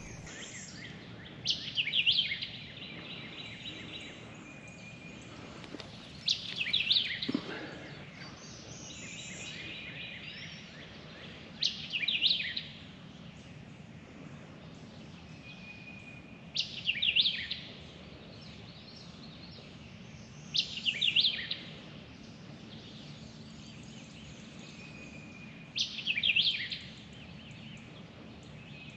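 A songbird repeating the same short song about six times, once every four to five seconds, each phrase lasting about a second, over a steady hiss of background noise.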